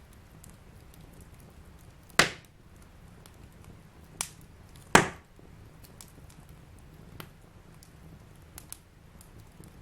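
Fireplace fire crackling: two loud sharp pops about two and five seconds in, a smaller one just after four seconds, and faint ticks in between over a low steady rush.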